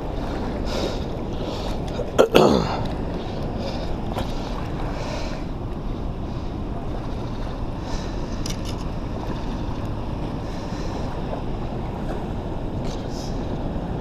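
Steady rushing noise of wind buffeting the microphone over moving water, with one brief loud thump about two seconds in.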